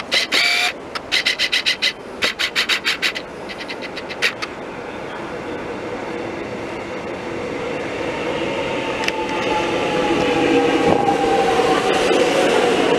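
An electric suburban metro train pulls in alongside the platform, its running noise swelling steadily louder and a motor whine falling slowly in pitch as it brakes. During the first four seconds, rapid clusters of sharp, high chirps sound over the approach.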